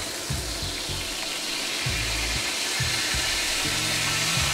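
Chicken pieces sizzling steadily as they sear in hot oil in a wok, over a lofi music beat with a repeating bass line.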